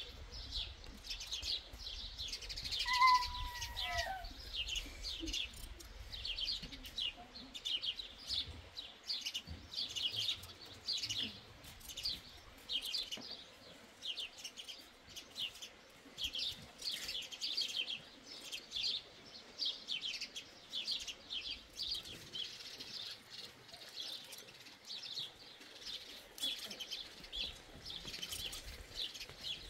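Small birds chirping over and over, short quick notes all through. About three seconds in there is a single brief call that falls in pitch.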